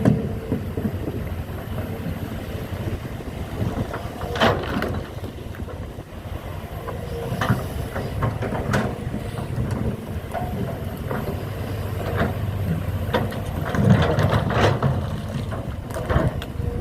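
A steady low engine rumble with scattered knocks and clanks of heavy machinery at work, the loudest knocks about four seconds in and again near the end.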